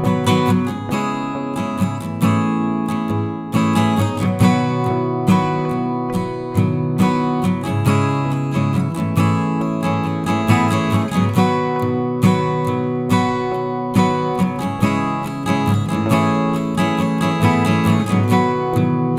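Background music: acoustic guitar strummed and plucked in steady chords with a regular beat.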